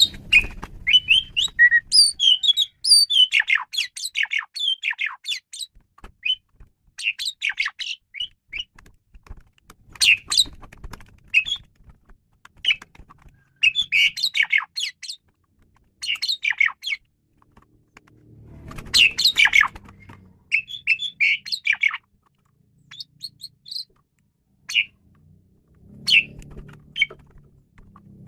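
Male Asian pied starling (jalak suren) singing a varied song: bursts of whistles, chattering and squawky notes in phrases of one to several seconds with short pauses between, the longest run in the first six seconds. A faint low rumble sits under some phrases.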